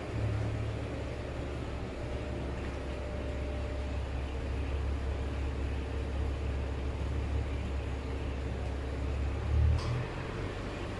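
A steady low mechanical rumble with an even hiss over it. The rumble stops about ten seconds in, with a brief louder thump.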